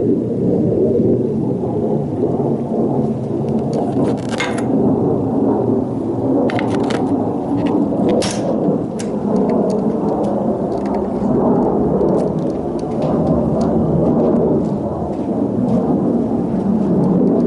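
Honda CB400F air-cooled inline-four engine running through its aftermarket exhaust, a loud steady rumble, with a few sharp clicks about four and eight seconds in.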